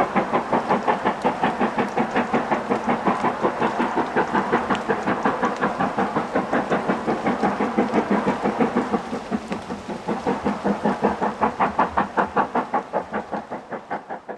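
Steam locomotive working hard, its exhaust beating fast and evenly at about five beats a second, growing fainter near the end.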